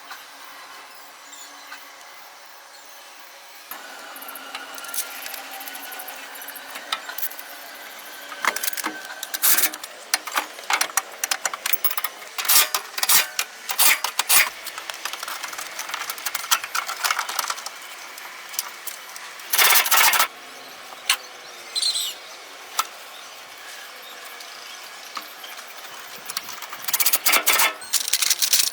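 Irregular clicks, taps and clanks of hard objects being handled, over a faint steady hum, with dense clusters of clatter about 20 seconds in and near the end.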